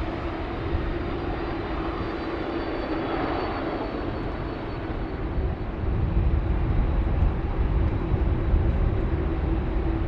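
Airbus A380-842's four Rolls-Royce Trent 900 jet engines during landing: a steady whine over a broad rush of engine noise, with a deep rumble growing louder about six seconds in.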